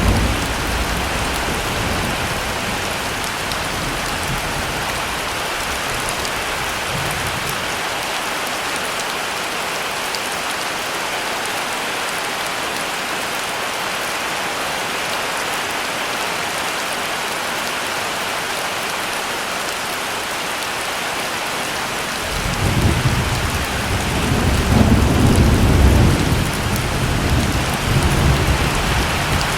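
Heavy rain falling steadily. A low thunder rumble dies away in the first few seconds, and about three quarters of the way through a long rumble of thunder rolls in, swelling and then easing off near the end.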